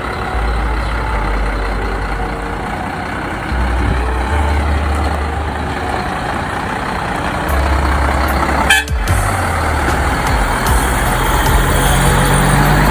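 Scania 124 truck's inline-six diesel engine running as the truck pulls away, a steady low rumble that grows louder toward the end. A brief sharp break in the sound comes about nine seconds in.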